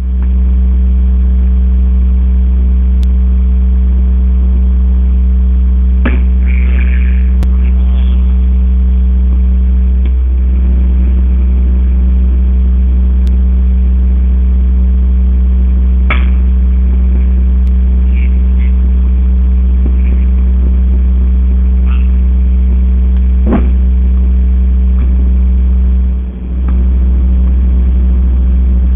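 A loud, steady low mechanical hum, with a few sharp knocks spread through it.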